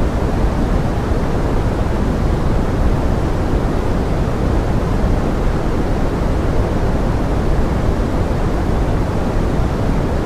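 Steady pink-noise forest rain: an even, unbroken rushing hiss, heavier in the low end, with no individual drops or other events standing out.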